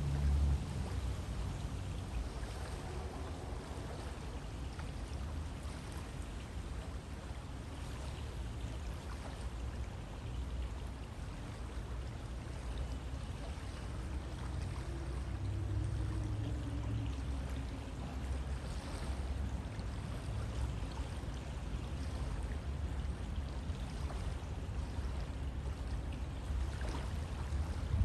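River water flowing steadily, a continuous rushing and pouring with a deep low rumble underneath.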